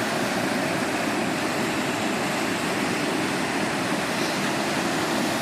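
Swollen monsoon stream rushing in a steady, even roar of turbulent water.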